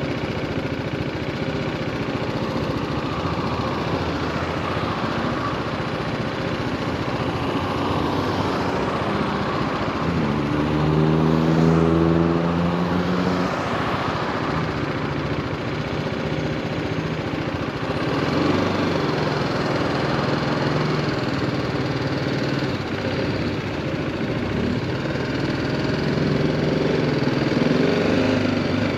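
2018 BMW G310R's single-cylinder engine running while ridden in traffic, heard under a steady rush of road and wind noise. About ten seconds in its pitched note comes up strongly for a few seconds, and it grows louder again briefly about eighteen seconds in and near the end.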